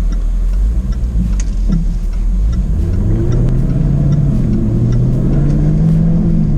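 The 2024 Jaguar F-Type's 5.0-litre supercharged V8 heard from inside the cabin, pulling away under acceleration: a low rumble at first, then from about three seconds in an engine note that climbs steadily in pitch and levels off near the end. The active exhaust is in its quiet mode.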